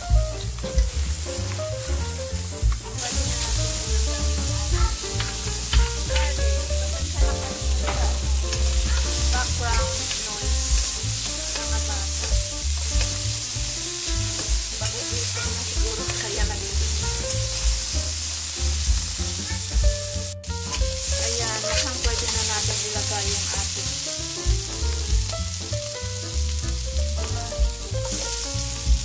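Sliced onions sizzling in hot oil in a wok while being stirred and scraped with a wooden spatula. Background music with a steady bass beat plays alongside.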